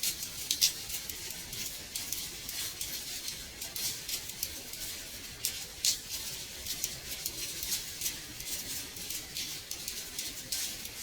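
Rain on a window pane: a steady hiss with many irregular sharp taps of drops striking the glass.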